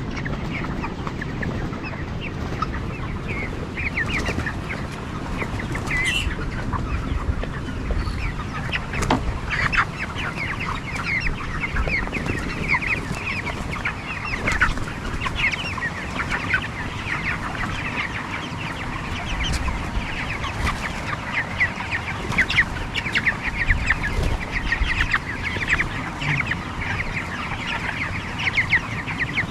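A shed full of 26-day-old broiler chickens clucking and cheeping, many short overlapping calls running on without a break over a steady low rumble.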